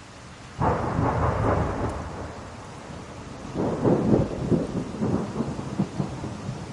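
A thunderclap breaks suddenly about half a second in and rolls on as a crackling rumble, with a second loud rolling burst around four seconds in, over steady rain.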